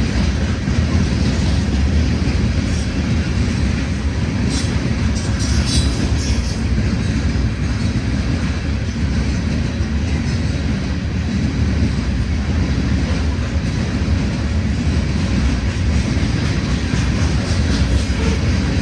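Freight train rolling past: a steady low rumble of wheels and railcars on the track, with a short run of sharp high clicks about five seconds in.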